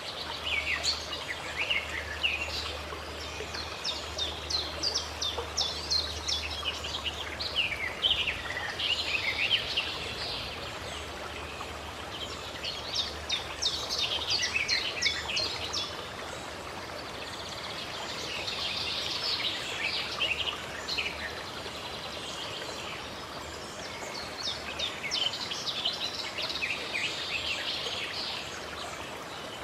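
Songbirds singing in bursts of quick high chirps and trills every few seconds over a steady background rush, likely running water.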